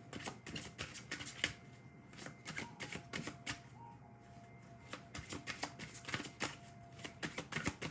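A deck of oracle cards being shuffled by hand: a run of quick, light card clicks and flutters coming in uneven clusters.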